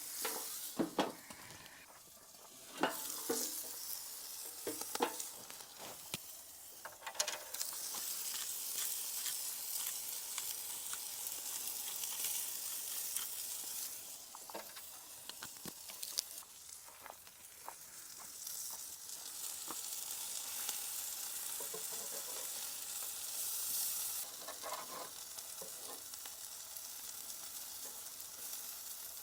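Bacon, egg and chicken breast sizzling on a hot gas barbecue hot plate, a steady frying hiss. Sharp clicks and knocks come over it, mostly in the first several seconds.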